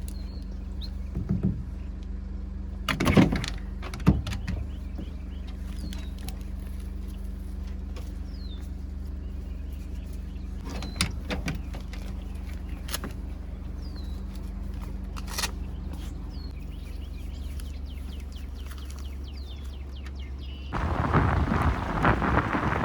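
A steady low engine-like hum, like a vehicle idling, broken by a few sharp knocks and clunks, with faint short bird chirps above it. Near the end a louder rushing noise comes in.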